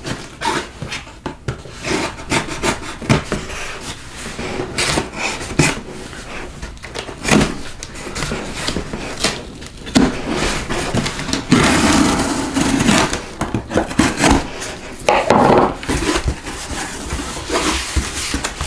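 Cardboard packaging being handled and opened, an irregular run of scraping, rubbing and knocking with a longer stretch of rubbing a little past halfway.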